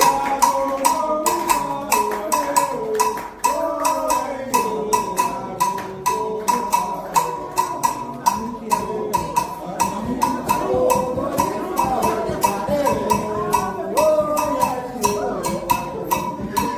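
Candomblé toque: a metal bell, in the manner of an agogô, struck in a fast steady rhythm over hand percussion, with a group singing a sacred chant.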